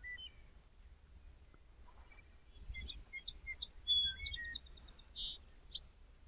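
A songbird singing a quick run of short chirps and whistled notes, beginning about two and a half seconds in and ending near the end, over a faint low rumble of forest background.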